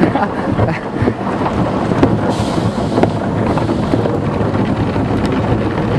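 Automatic car wash heard from inside a closed truck cab: water drumming hard on the body and windows in a steady loud rumble, with a brief rush of spray hiss about two seconds in.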